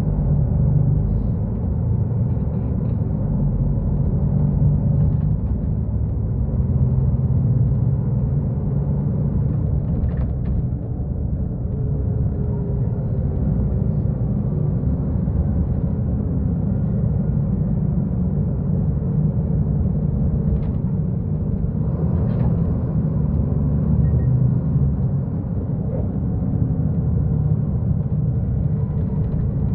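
Mercedes-Benz O-500U Euro 5 bus diesel engine running steadily with a deep, even rumble. A few faint knocks sound over it, about ten and twenty seconds in.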